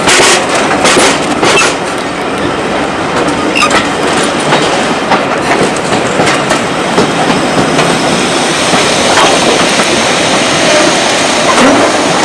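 Train running on the rails: a loud, steady rumble of the carriages, with the wheels clicking sharply over rail joints a few times in the first second or so.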